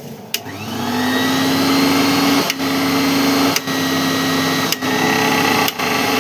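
A mixer grinder's universal motor is switched on with a click and spins up to a steady high whine. The sound drops briefly four times. The motor has a freshly fitted bush and new carbon brushes and runs smoothly, with no noise from a worn bush.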